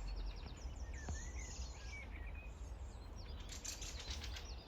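Small birds chirping, many short, quick calls overlapping, over a steady low rumble, with a brief rustle about three and a half seconds in.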